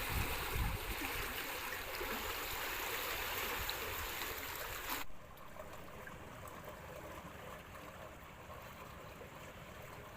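Steady rush of flowing water, cutting abruptly to a quieter hiss about five seconds in.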